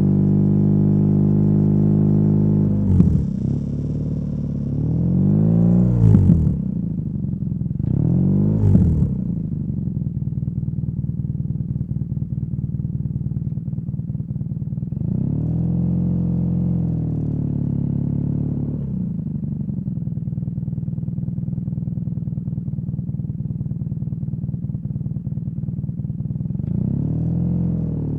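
BMW R nineT's air/oil-cooled boxer twin running through a Competition Werkes slip-on exhaust while riding. It revs up and drops back in three quick swells in the first nine seconds or so, then runs steadier, with two slower rises and falls later on.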